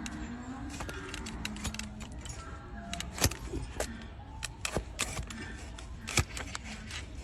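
Hoof-trimming tools cutting into a donkey's overgrown hoof: a run of sharp clicks and snips, with two louder cracks about three seconds and six seconds in.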